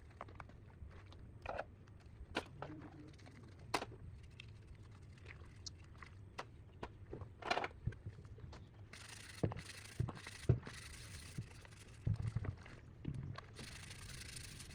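Scattered light clicks, knocks and scrapes of hand work on scooter parts. A steady hiss joins in about nine seconds in and runs on in stretches.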